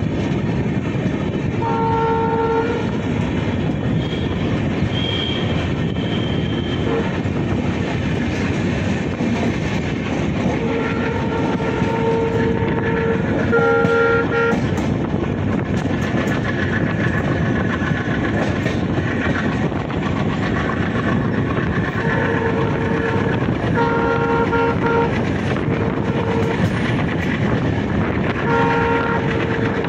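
Passenger train running with a steady rumble and clatter of wheels on the rails. A multi-note train horn sounds repeatedly: a short blast about two seconds in, a long blast around the middle, a cluster of blasts about three quarters of the way in, and another just before the end.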